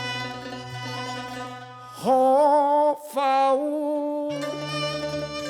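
Cantonese opera music: long, held sung notes with vibrato over a bowed-string accompaniment, with a louder note swooping up into pitch about two seconds in.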